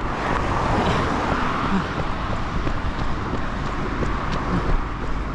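Road traffic: a passing vehicle's noise swells in the first couple of seconds and then eases, over a steady low rumble.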